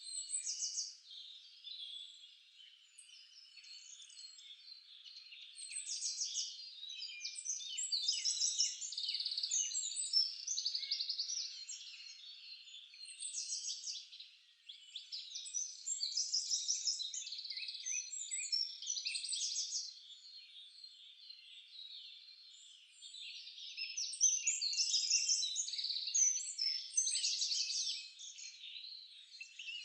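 Several forest songbirds singing and calling over one another, a dense mix of high chirps and trills that swells and fades in waves.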